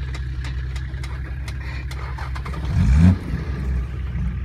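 Four-wheel-drive engine running steadily under load as it pulls a vehicle out on a recovery strap, revving up briefly about three seconds in, with scattered light clicks.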